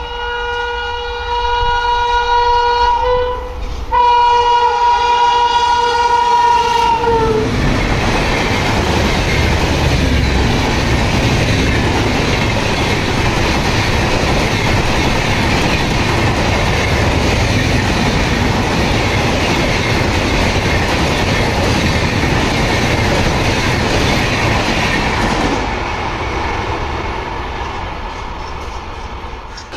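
Locomotive horn of the Konark Express sounding two long blasts, the second sagging in pitch at its end as the engine passes. Then the train of LHB coaches rushes past at speed with a steady, loud wheel-and-rail rumble that fades over the last few seconds as the tail of the train goes away.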